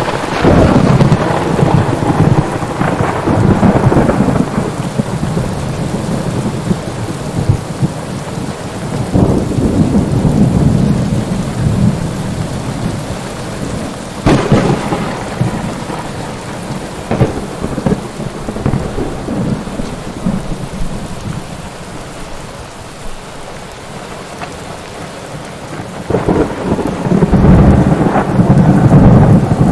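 Thunderstorm: steady heavy rain with rolling thunder. A crack of thunder about 14 seconds in rumbles on for several seconds, and a long, loud rumble builds near the end.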